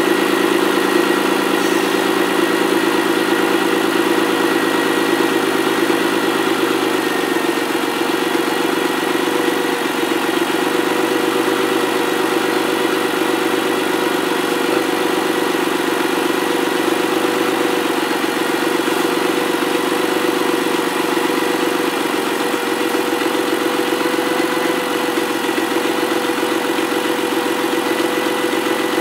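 ST200's engine idling steadily, on its first run after a head gasket and timing chain repair.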